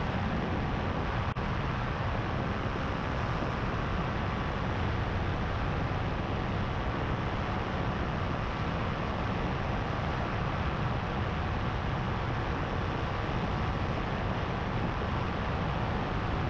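Paramotor engine and propeller running steadily in flight, heard through wind noise, with one brief click about a second in.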